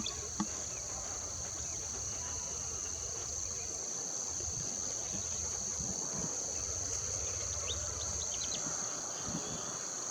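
Steady, high-pitched insect chorus, crickets or similar, droning without a break over a faint low rumble. A few faint short chirps come in about seven to eight seconds in.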